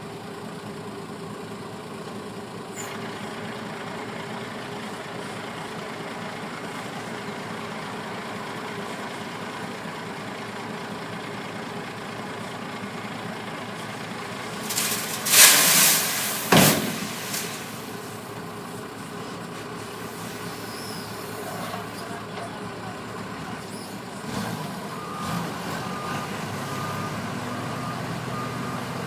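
Heavy vehicle engine running steadily, with a loud hiss of released air about halfway through, typical of air brakes. Near the end a reversing alarm starts beeping in an even pulse.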